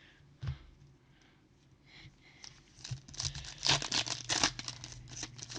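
A trading-card pack wrapper being torn open and crinkled: crackling, rustling tears that grow dense and loud about halfway through. A soft knock comes about half a second in.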